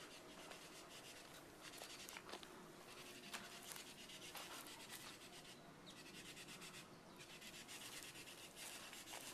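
Near silence: faint rustling with scattered small clicks.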